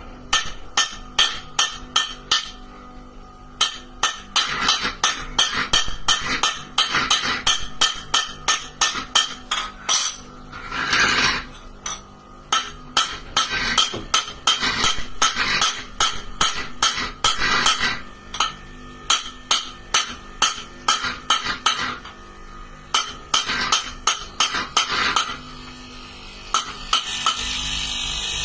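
Rapid metal-on-metal hammer blows, about two to three a second, in runs with short pauses, knocking on a seized rotary compressor to free it. Near the end the blows stop and a steady hissing hum sets in.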